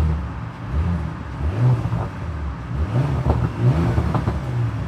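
2024 Porsche Macan S's twin-turbo 2.9-litre V6 exhaust in Sport Plus mode, revving up and dropping back several times in a row.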